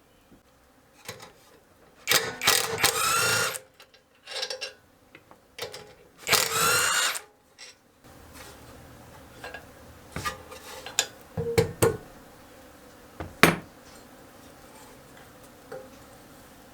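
Hand tools working on a small engine: two loud bursts of mechanical ratcheting, each about a second long, followed by scattered light clicks and a sharp knock of metal parts.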